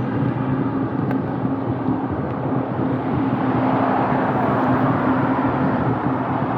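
Steady rush of road traffic and wind, with a low steady hum underneath, swelling a little about halfway through as a vehicle goes by; one short click about a second in.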